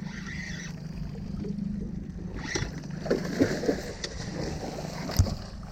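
Small boat's motor idling with a steady low hum, and a few sharp knocks on the hull starting about three seconds in, the loudest near the end.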